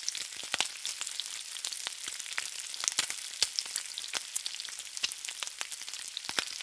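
Food frying: a steady sizzle with frequent sharp crackles and pops.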